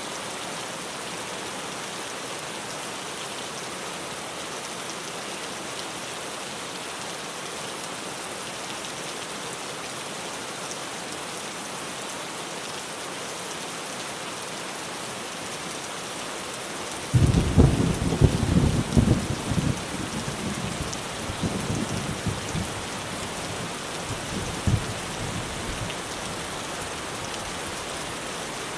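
Steady heavy rain drumming on a tin roof. About two-thirds of the way in, a sudden crack of thunder breaks into a deep rumble that swells a few more times and fades out over about eight seconds.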